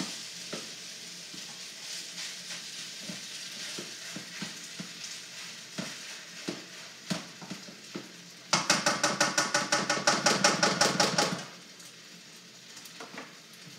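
Rice frying in a hot wok, a steady sizzle with scattered clacks of the spatula, as the moisture is cooked out to crisp the rice. About eight seconds in comes a loud burst of fast, rhythmic stirring, about six strokes a second for roughly three seconds, after which the sizzle goes quieter.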